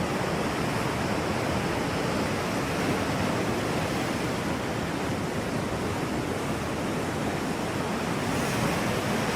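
Steady, even rushing noise of an outdoor ambience, with no distinct events.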